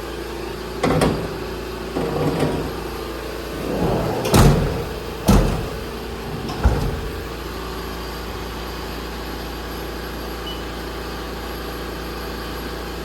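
Haas VF2SS vertical machining center humming steadily while it runs a spindle warm-up. Several knocks and clunks sound in the first seven seconds, the loudest about four and a half and five and a half seconds in.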